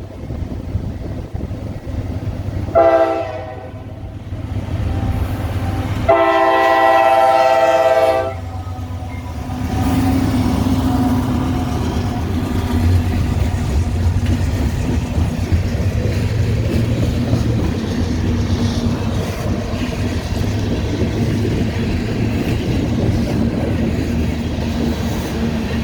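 Diesel freight locomotive's multi-chime air horn sounding a short blast and then a long one, the close of a grade-crossing signal. From about ten seconds in, the locomotives and tank cars pass with a steady loud rumble and the clickety-clack of wheels on the rails.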